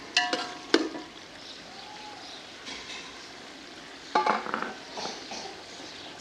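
Potatoes and masala sizzling in oil in a large metal pot as the water cooks off, stirred with a metal ladle. The ladle knocks against the pot with a few ringing clinks in the first second and again about four seconds in.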